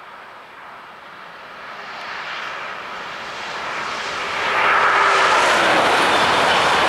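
High-speed double-deck train passing at speed: a rushing hiss that builds over the first four seconds and becomes loud and steady about four and a half seconds in, with a short falling whine as it draws level.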